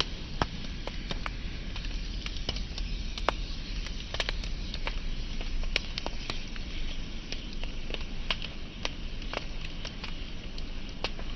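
Wood fire burning, crackling with frequent sharp irregular pops over a steady hiss and low rumble of the flames.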